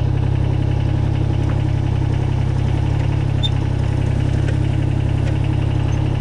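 Kubota BX22's small three-cylinder diesel engine running steadily at an even speed.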